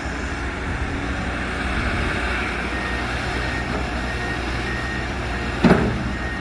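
Excavator and dump truck engines running with a steady low rumble. From about three seconds in, a backup alarm beeps repeatedly, and there is a single sharp knock near the end.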